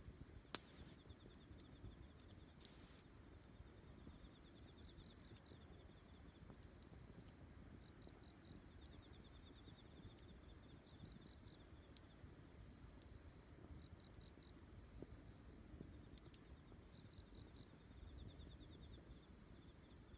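Faint campfire crackling with scattered sharp pops, one louder pop about half a second in, while insects chirp in short repeated trills.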